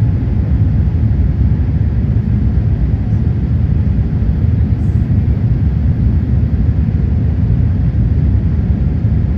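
Steady cabin noise inside a Boeing 787-8 climbing after takeoff: a low, even rumble from its Rolls-Royce Trent 1000 engines and the airflow over the fuselage.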